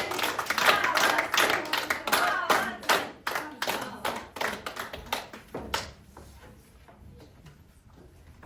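Small audience clapping, with voices over it; the clapping thins out and dies away about six seconds in.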